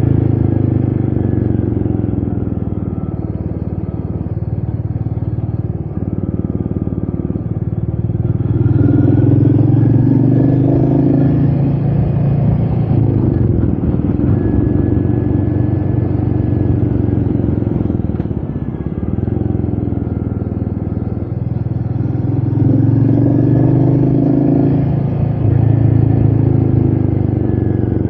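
Royal Enfield Meteor 350's single-cylinder engine running under way, with wind on the microphone. It pulls harder about a third of the way in and again near the end, easing off in between.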